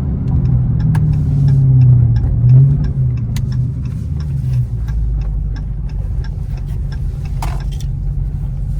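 Dodge Charger Hellcat's supercharged 6.2-litre V8 running while the car is driven at low speed: a steady low drone that swells briefly about two to three seconds in, then settles to a lower, even rumble.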